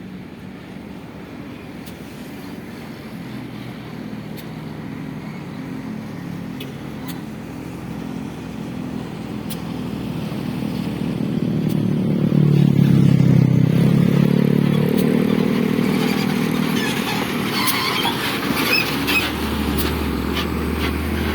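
Dump truck engine running and growing steadily louder as the truck comes closer, loudest about two-thirds of the way through, with scattered clicks and rattles near the end.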